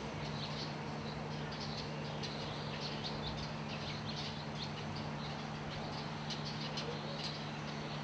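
Small birds giving many short, high chips and twitters at irregular intervals, over a steady low hum.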